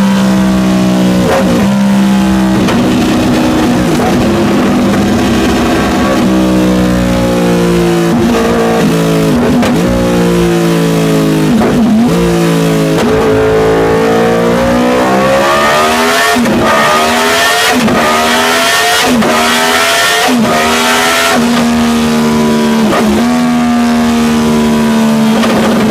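Yamaha YZF-R1M's crossplane inline-four engine heard through its exhaust at high revs: the pitch holds and falls in steps over the first half, then climbs steadily, with a run of short sharp breaks in the note before it settles to a steady high pitch near the end.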